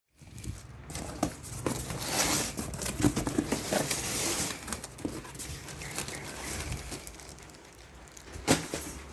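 Rustling and crinkling with irregular light clicks and knocks of something being handled, with a sharper knock near the end.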